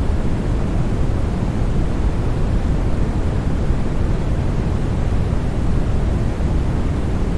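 Continuous white noise sleep sound for babies, a steady hiss with no changes, heavier in the low end than the high.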